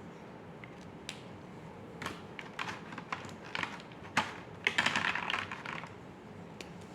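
Drawing on paper: a few scattered sharp taps of a pen or marker, then about a second of quick scratching strokes just before the end.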